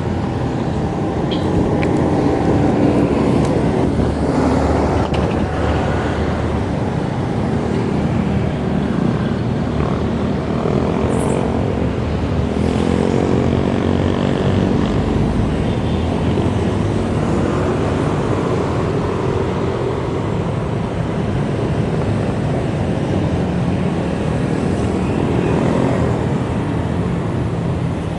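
Steady road and wind rumble of a bike ride, with motor vehicles passing a few times, their engine pitch sweeping as they go by.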